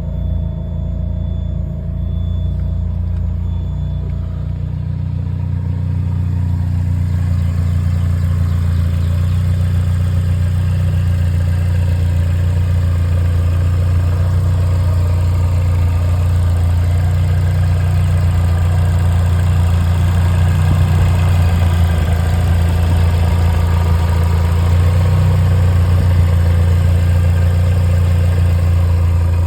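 2008 Lotus Exige S's supercharged four-cylinder engine idling steadily, getting a little louder over the first several seconds and then holding even.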